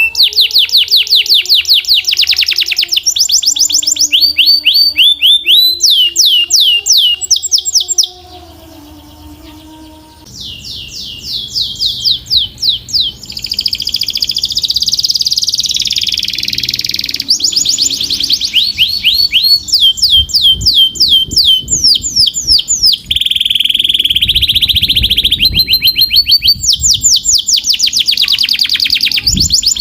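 Canary singing in fast, high-pitched trills of rapidly repeated sweeping notes, with a short pause about eight seconds in before the song picks up again.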